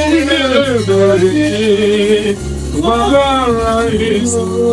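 Gospel praise music: a voice sings long, wavering melodic lines over a steady bass accompaniment, with a brief lull about two and a half seconds in.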